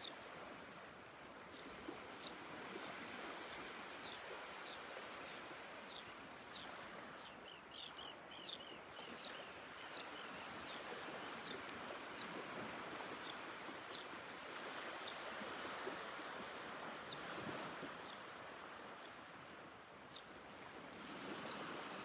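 A bird calling with a run of short, high, falling chirps, about two a second, over a steady outdoor rushing background.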